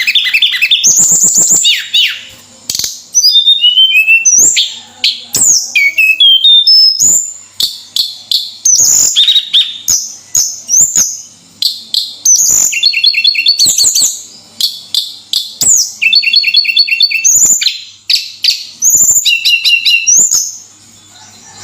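A tledekan songbird singing without pause in full, energetic song: a rapid, varied stream of sharp chirps, whistled notes that slide up and down, and short rattling trills.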